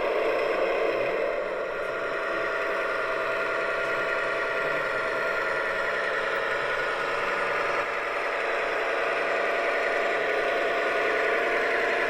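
LGB V 200 model diesel locomotive running, its ESU sound decoder playing a steady diesel engine sound through the model's loudspeaker.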